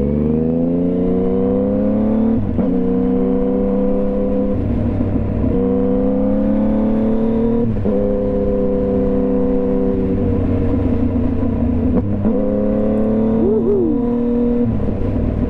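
2015 Yamaha FZ-09's three-cylinder engine pulling hard through the gears. The engine note climbs, then drops sharply at each upshift about two and a half, eight and twelve seconds in, and climbs again after each.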